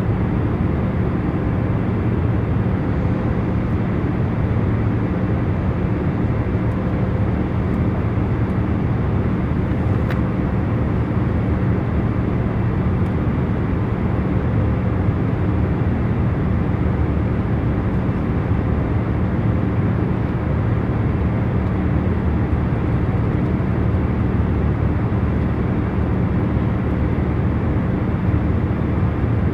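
Airliner cabin noise in cruise flight: a steady, unchanging low rumble from the engines and airflow, with a faint hum of a few steady tones underneath.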